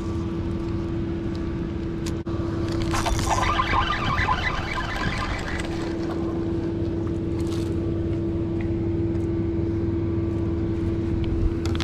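Boat motor running steadily with a constant humming tone and low rumble. A brief louder, noisy burst comes about three seconds in.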